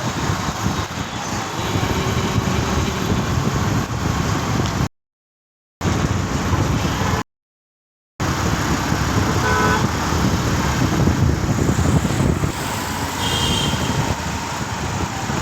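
Steady road and vehicle noise from running cars, with a few short horn-like beeps. The sound cuts out completely twice, for about a second each time.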